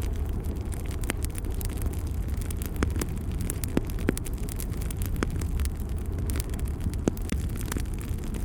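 Wood fire burning in a fireplace: a steady low rumble of flames with scattered sharp crackles and pops, two louder pops about four and seven seconds in.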